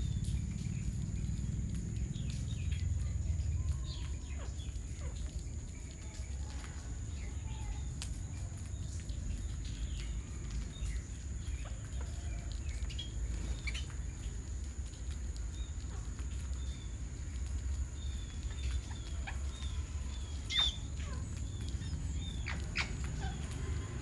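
Short, scattered chirps from a flock of feeding birds, over a low steady rumble, with a louder, sharper call about twenty seconds in.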